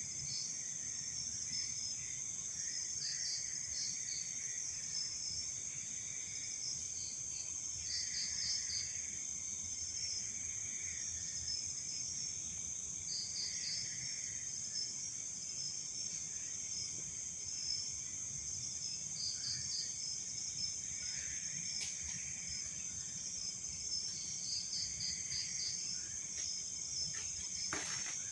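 Night insect chorus: a steady, high-pitched trill of crickets, with short groups of three or four quick chirps repeating every few seconds.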